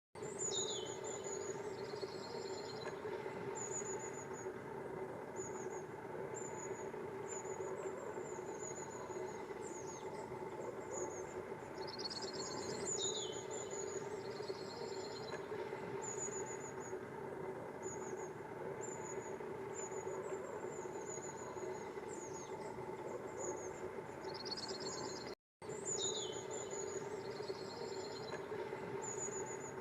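Long-tailed tits calling: repeated thin, high notes, a few falling notes and short rattling trills, over a steady low background hum. The sound cuts out once, briefly.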